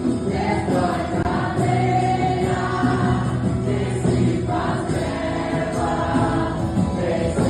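Gospel worship group singing together over instrumental accompaniment, sustained sung notes over a steady band.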